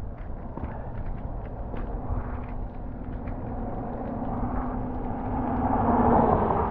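A motor vehicle approaches and passes, growing louder to its loudest about six seconds in, over a steady low rumble of wind on the microphone of a moving bicycle.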